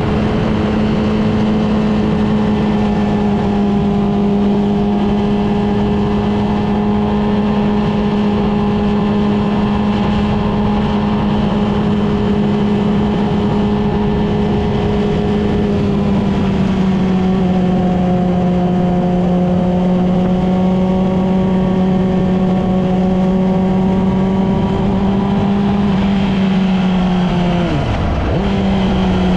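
Yamaha R6 inline-four sport bike engine under way at a steady, high-pitched hum with wind noise. About halfway through, the pitch settles slightly lower. Near the end it dips sharply and briefly as the throttle comes off, then picks up again.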